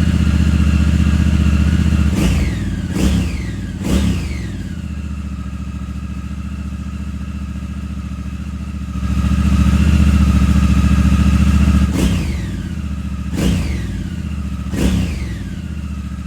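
Honda Hawk 11's parallel-twin engine idling through a Moriwaki slip-on muffler, with three quick throttle blips that rise and fall back about two seconds in, and three more near the end. The idle drops after the first blips and runs louder again for a few seconds in the middle.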